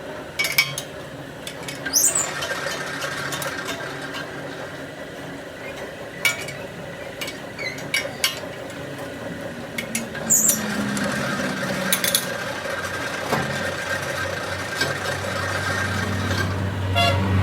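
A machine running steadily in a metalworking shop, with scattered metal clicks and scrapes and two short high squeals, one about two seconds in and one about ten seconds in.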